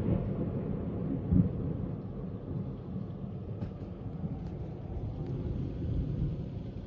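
Low roll of thunder fading slowly after a loud peak, with a brief swell about one and a half seconds in.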